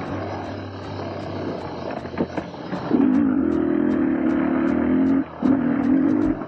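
Two-stroke 300 cc enduro dirt bike engine (Beta 300RR) with an aftermarket exhaust, running at light throttle and then opening up about halfway through. It holds a steady pull, with a brief dip off the throttle near the end.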